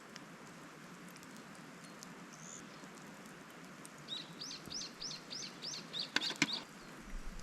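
A small bird calling outdoors: a quick run of about eight short, high, arched notes, starting a little over halfway through, over a steady faint hiss. A couple of sharp clicks come near the end.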